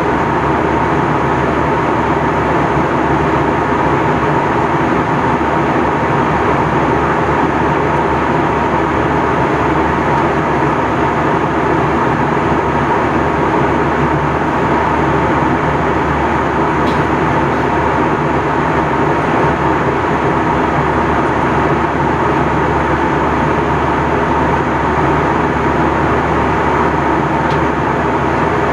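Steady cabin noise of an Airbus A321 airliner in flight, heard from a front-row window seat: a constant rush of airflow and engine noise with a faint steady tone running through it.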